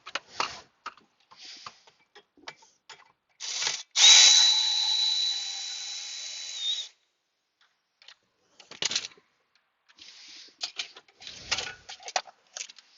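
A cordless power drill/driver spins for about three seconds with a high steady whine, loudest as it starts, backing out a fastener that holds the body control module and fuse box. Scattered clicks and clatter of parts and tools come before and after it.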